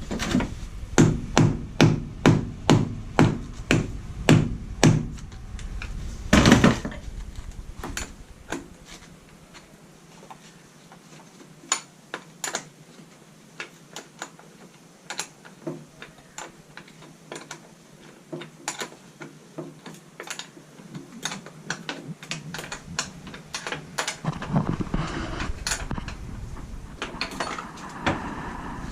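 Hammer blows on the bus during battery and starter wiring work: a quick run of about ten strikes, roughly two a second, then one heavier blow. Lighter scattered taps and clicks of tools follow.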